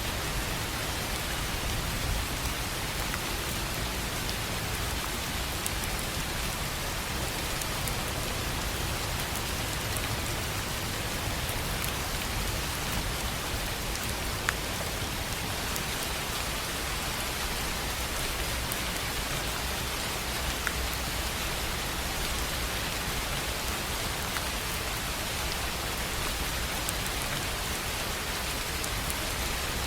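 Steady rain on a tin roof, an even hiss of drops, with a few sharper single drop taps now and then.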